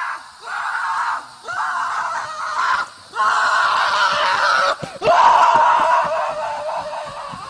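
Five long screams in a row, each lasting about a second with short breaks between them; the last one fades away.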